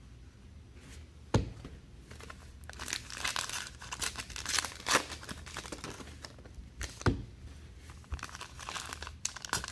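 Trading card pack wrappers being torn open and crinkled, with two sharp thumps, about a second in and again about seven seconds in.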